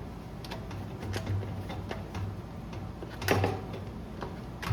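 Cordless impact driver with a 10 mm socket running in a few short bursts as it backs out small engine bolts, among light clicks and clatter of the bolts and the plastic air filter housing being handled; the sharpest clatter comes a little past the middle.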